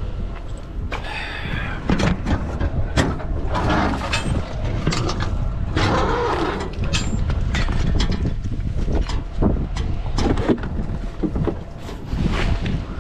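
Truck engine idling with a steady low rumble, with scattered knocks and clanks through it.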